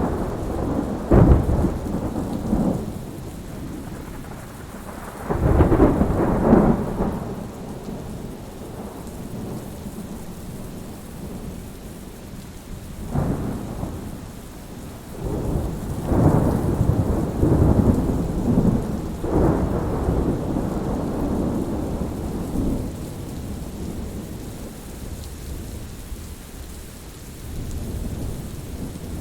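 Thunderstorm: steady rain with thunder rumbling again and again, a sharp clap about a second in, then long rolls a few seconds later and through the middle, and a softer rumble near the end.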